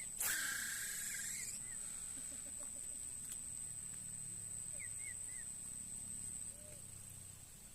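Riverbank ambience: a steady, high-pitched insect drone that stops about six and a half seconds in, with a few short bird chirps. A brief loud rushing noise comes just after the start.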